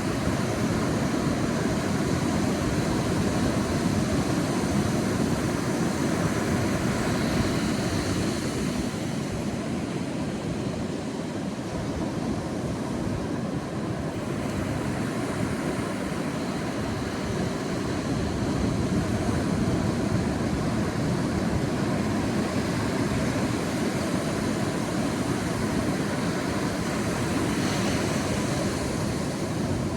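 Sea waves washing onto a beach: a continuous surf rush that swells and eases, with a brighter hiss of breaking water about seven seconds in and again near the end.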